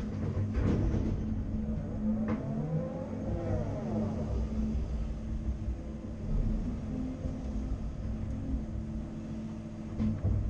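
Caterpillar 330 Next Generation excavator's diesel engine running under working load, with a whine that rises and falls in pitch about two to four seconds in and a short clank a little after two seconds.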